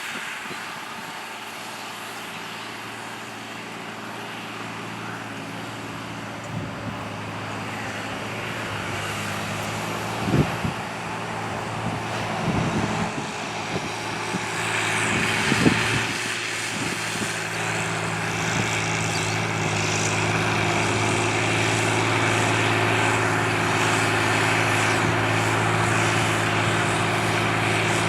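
John Deere 8300 tractor's six-cylinder diesel engine running steadily under load, growing louder as it draws nearer. There are a few short knocks around the middle.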